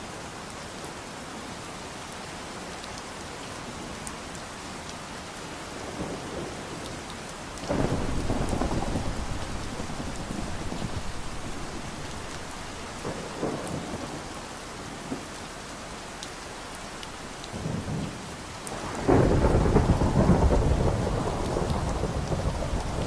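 Steady rain with thunder rumbling twice, once about a third of the way in and more loudly near the end.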